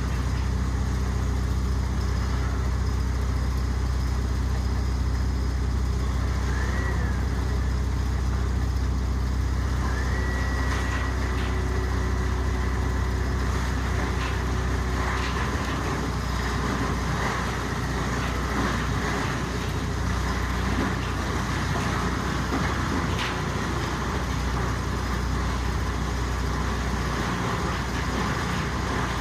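Industrial wood disc crusher running at speed with a steady deep hum. About halfway through the sound turns rougher and more irregular, with scattered cracks, as wood is chewed into chips.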